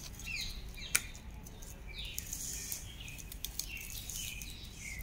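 Birds chirping repeatedly: short, falling chirps, one about every half second to a second, with one sharp click about a second in.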